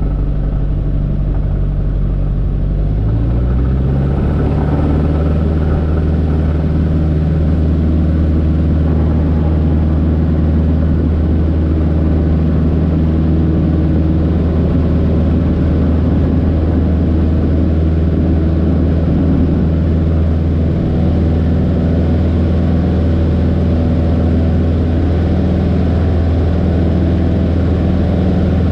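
Light aircraft's piston engine being throttled up about three seconds in, then running steadily at full power for the takeoff.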